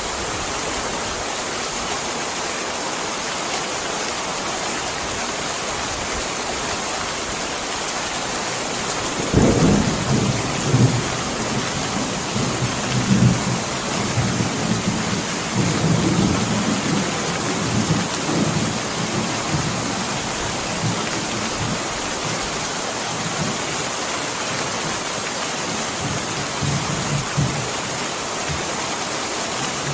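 Steady heavy rain. About a third of the way in, a long low roll of thunder starts suddenly and rumbles on with several louder swells before fading near the end.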